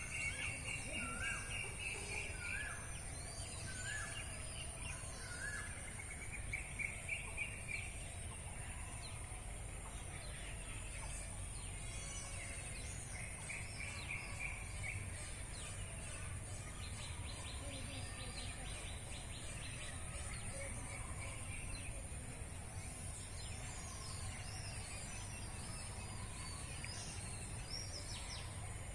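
Several wild birds singing and calling: a run of short rising notes about once a second and quick trills in the first few seconds, more trills and a rapid rattling series later on, over a steady high hiss and a low rumble.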